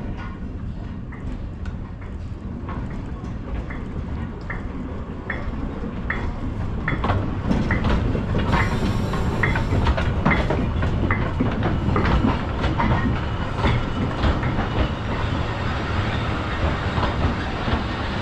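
Narrow-gauge steam train, Talyllyn Railway's 0-4-2 tank engine Tom Rolt and its wooden coaches, rolling slowly into the station and past. Its wheels click over the rail joints in a steady rhythm above a rumble that grows louder as the engine and coaches come alongside. A short hiss comes about eight seconds in.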